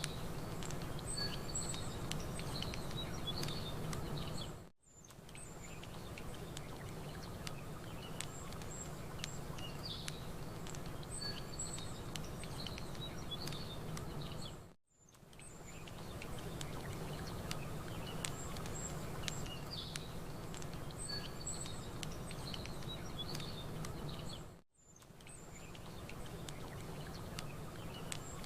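Small birds chirping and twittering over the light crackle of a campfire and a steady low rush of ambient lakeside noise. The whole bed fades almost to nothing and swells back three times, about every ten seconds, as a short loop repeats.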